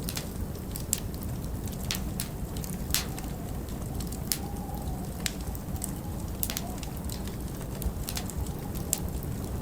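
Log fire crackling in a large stone fireplace: irregular sharp pops and snaps over a steady low rumble of storm wind, with a faint wavering wind whistle through the middle.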